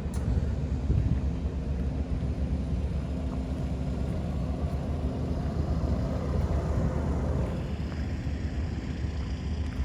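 Portable HVAC unit running with a steady low mechanical hum.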